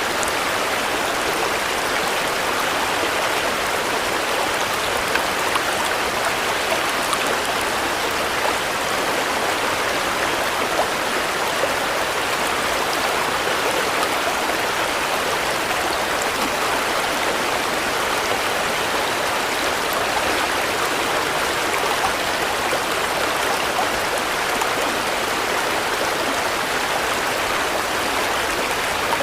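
Steady rain falling: an even, dense hiss of drops with small scattered ticks, unchanging throughout.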